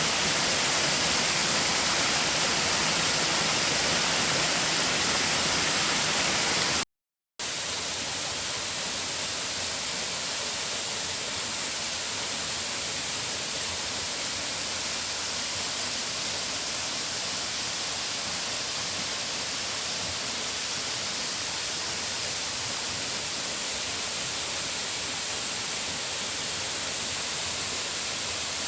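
Waterfall cascade: water rushing steadily with a bright hiss. It cuts out to silence for a moment about seven seconds in, then carries on a little quieter.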